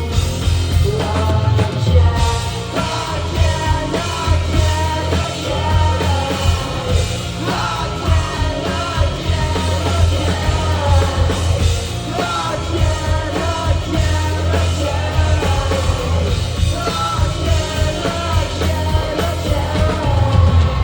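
Live rock band playing at full volume, with a singer's vocals over guitars, bass and drums.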